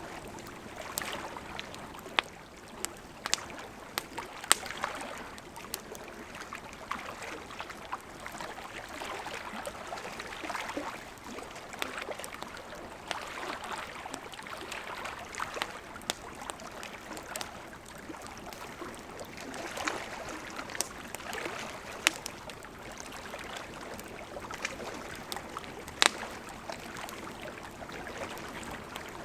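Campfire wood crackling, with sharp irregular pops, the loudest a few seconds in and again near the end, over the steady rush of a gently flowing river.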